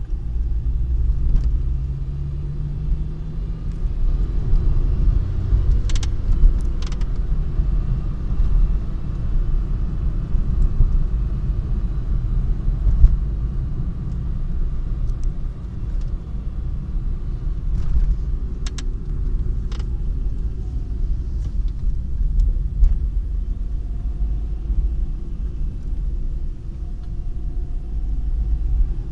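Car running with a steady low rumble and a few sharp clicks here and there, recorded as an abnormal noise.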